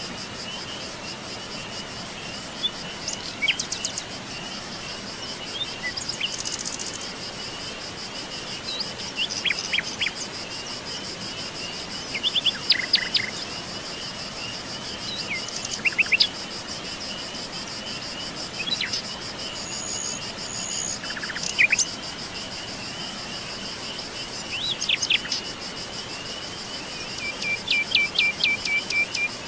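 Insects, crickets or similar, trilling steadily and high-pitched. Over the trilling, birds give scattered short chirps and quick runs of notes every few seconds.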